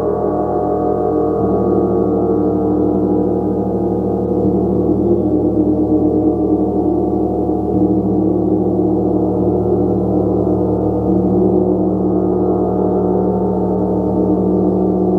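A gong played continuously: a dense, steady wash of many overlapping ringing tones, kept going by soft, closely repeated mallet strokes, with the low tones shifting every few seconds.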